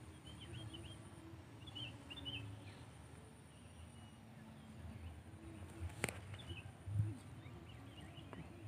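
Faint outdoor ambience with small birds chirping in short bursts several times. A single sharp click comes a little after six seconds in, and a low bump follows about a second later.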